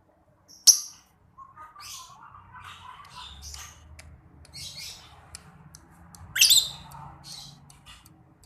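Pet lovebird chirping in a run of short high notes, with two loud, sharp rising calls, one about a second in and another two-thirds of the way through.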